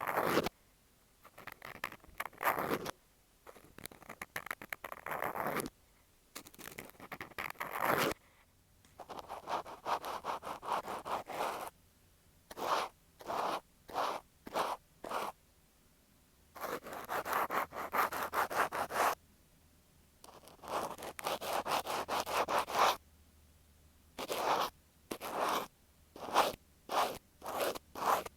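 Cotton swab rubbing and scratching against an earphone microphone, as in ear-cleaning ASMR. The strokes come in runs of fast scratching one to three seconds long, alternating with runs of short separate strokes, with brief pauses between.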